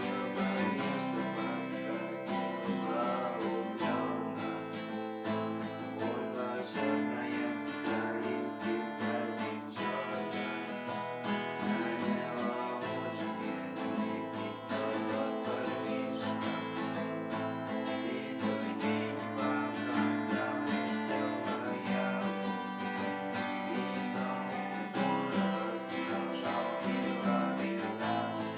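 Acoustic guitar being strummed, playing music with steady chords.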